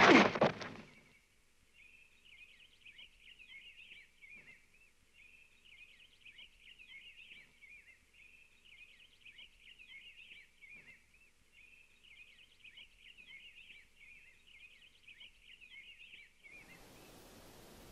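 The tail of Charlie Brown's crash to the ground fades in the first second. Then birds chirp faintly in quick high twitters, in four stretches a few seconds long with short gaps. Near the end a soft hiss takes over.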